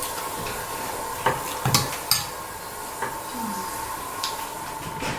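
Eating at a table: a few sharp clinks and clicks of dishes and cutlery, over a faint steady tone.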